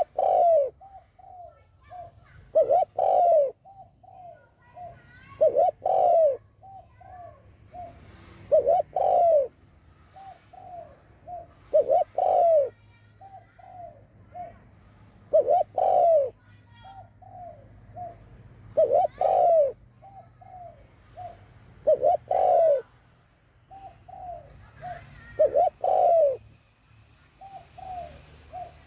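Spotted dove cooing its song over and over. Each phrase is a few short, soft notes leading into a loud, falling two-part coo, repeated about every three seconds.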